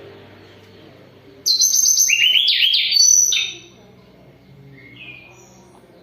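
A tledekan gunung songbird singing one loud, quick phrase of rapid whistled notes that starts high and steps lower, followed a second or so later by a single faint note.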